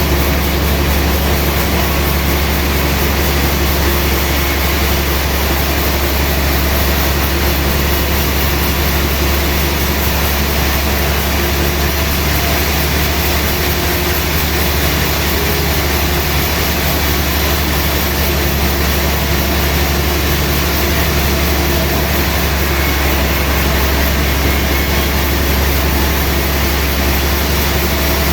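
Sawmill machinery running steadily, a loud unbroken low engine hum with no change in pitch or level.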